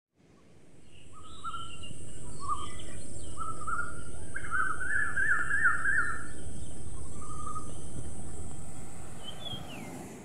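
Several birds singing short trills and chirps over a steady outdoor background hiss. The sound fades in at the start and fades out near the end.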